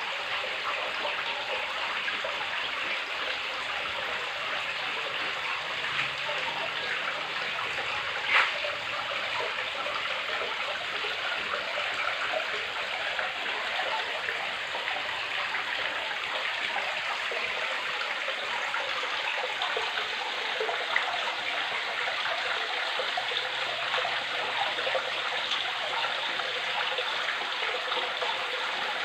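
Small waterfall splashing steadily into a pond: an even, unbroken rush of falling water, with one brief click about eight seconds in.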